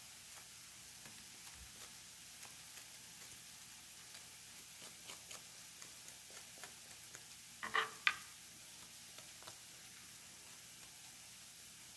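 Onion and ginger frying faintly in a pan on medium heat, with scattered small crackles. A brief clatter about eight seconds in.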